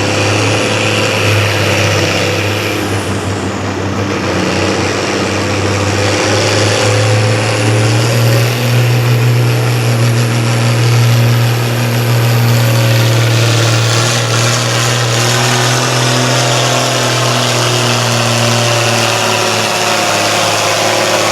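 Competition pulling tractor's engine running hard under load on a sled pull, holding a steady pitch. It climbs a step higher about eight seconds in, holds there, and falls away shortly before the end.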